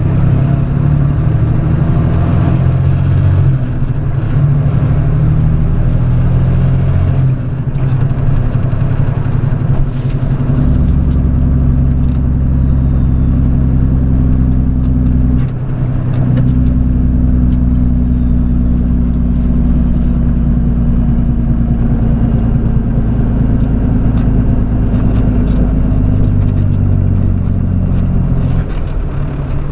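Diesel engine of a flatbed straight truck running under way. Its note steps to a new pitch several times, with a brief drop in level about fifteen seconds in, then holds steady.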